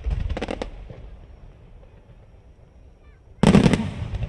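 Aerial firework shells bursting: a loud bang at the start followed by a quick run of crackles, then another loud burst with rapid crackling about three and a half seconds in.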